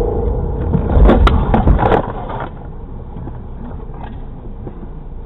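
Vehicle road noise with a loud burst of sharp knocks and clatter from about one to two seconds in, then a quieter steady rumble.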